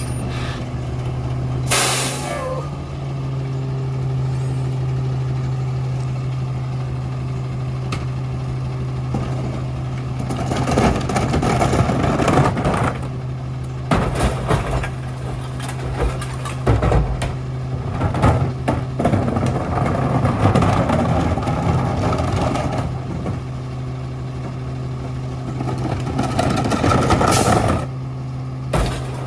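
Garbage truck's diesel engine running steadily, with a short hiss of air about two seconds in and again near the end. In the middle there is a long stretch of louder, uneven clattering.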